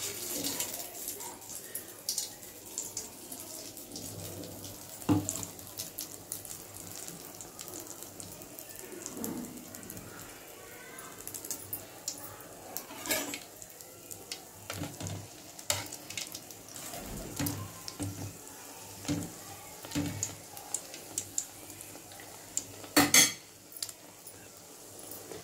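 Egg-battered slice of bread sizzling as it deep-fries in hot oil in an aluminium kadai; the sizzle starts as the slice goes into the oil. Sharp clinks of metal against the pan come every few seconds, the loudest near the end.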